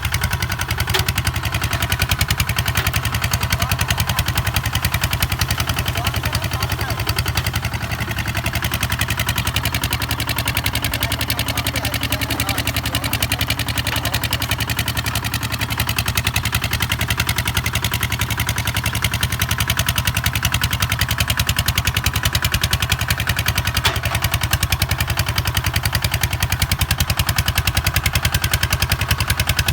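Kubota ZT 155 DI single-cylinder diesel engine running steadily with a rapid, even firing beat while the tractor plows.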